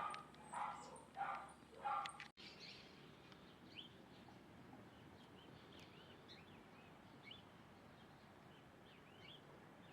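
Loud repeated animal calls, about two a second, for the first two seconds, cut off suddenly; after that, faint scattered high bird chirps over a soft steady background.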